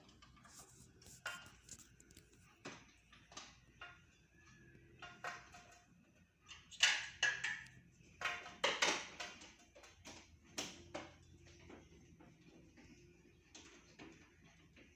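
Irregular clicks, knocks and rustles of objects being handled, thickest and loudest about halfway through.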